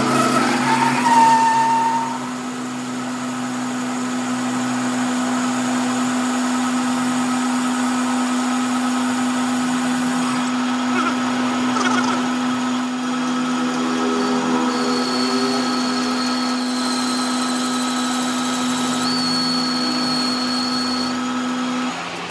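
A workshop power tool's electric motor running at a steady speed with a constant hum. A thin high whine joins in about halfway through, and the motor stops shortly before the end.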